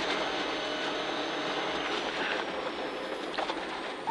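Rally car at speed, heard from inside the cabin: steady engine and tyre noise, easing off slightly near the end.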